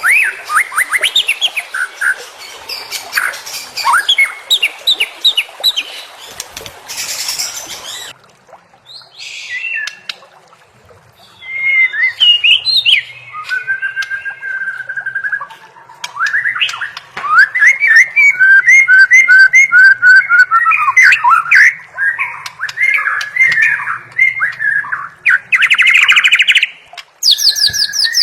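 White-rumped shama (murai batu) singing a varied song of rapid whistled notes and phrases. The song cuts off abruptly about eight seconds in and resumes more quietly, then builds into a long run of quick, repeated whistled notes.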